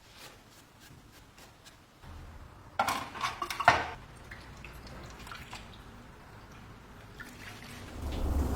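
Faint ticks, then a quick cluster of sharp knocks and clatter about three seconds in, over a low hum that comes in after two seconds and grows louder near the end.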